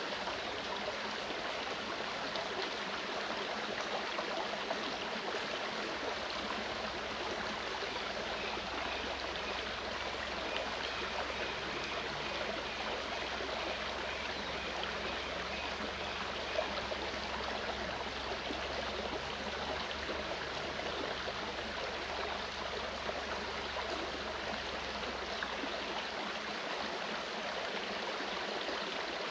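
Clear mountain stream flowing steadily, an even rush of running water. A faint low hum sits beneath it for most of the stretch.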